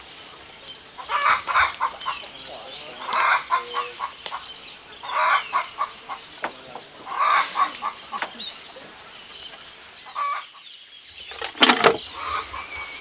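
A bird calling in short clustered bursts about every two seconds, four times, over a steady high buzz of insects. A few sharp knocks near the end.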